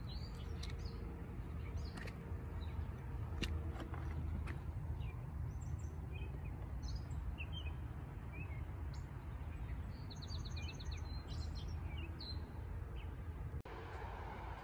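Wild birds singing outdoors: a rapid trill of repeated high notes at the start and again about ten seconds in, with scattered short chirps between, over a steady low rumble. A few sharp clicks come between two and four and a half seconds in, and the background changes abruptly near the end.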